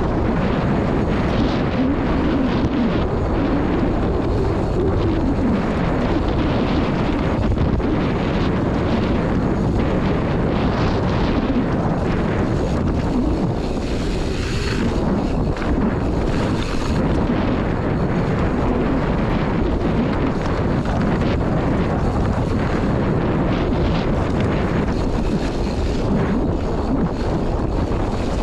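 Wind buffeting the camera microphone on a mountain bike's downhill descent: a loud, steady rumbling rush with no letup.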